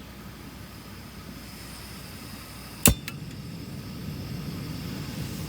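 Steady low outdoor background rumble, with one sharp click about halfway through and a fainter click just after it.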